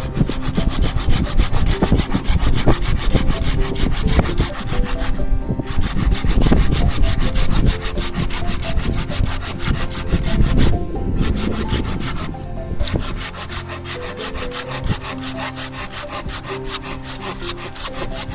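Hand saw cutting through a wooden branch in steady back-and-forth strokes, with short pauses about five seconds in and again about eleven and twelve seconds in.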